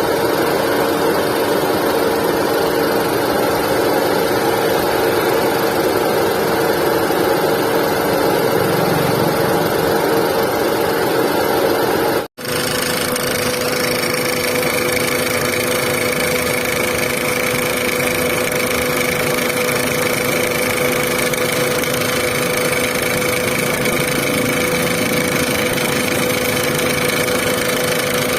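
Volkswagen Vento engine idling steadily, the car's reported engine noise problem. About twelve seconds in the sound breaks off for an instant and picks up again with a different set of tones.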